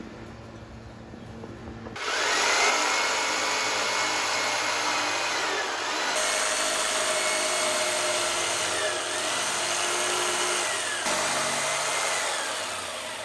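Electric power drill starting about two seconds in and running hard under load, its motor whine sagging and recovering several times as it bites.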